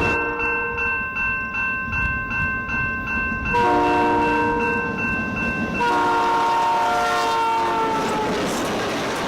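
A real Canadian Pacific diesel locomotive's air horn sounds a long chord about three and a half seconds in, then a second one about six seconds in that drops in pitch as the train passes. Under the first part, a steady high ringing tone beats at a regular rate.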